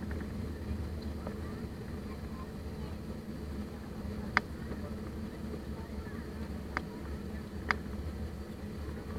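Steady low hum inside an Airbus A320 cabin, with three short sharp clicks about four and a half, almost seven and almost eight seconds in.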